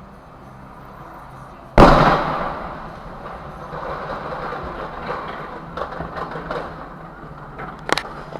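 A vehicle collision: a sudden loud crash about two seconds in that dies away over about a second into rattling and scraping, followed by scattered knocks and clicks.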